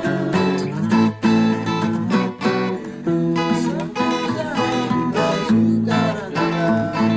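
Acoustic guitar music, strummed, with notes ringing over a steady beat.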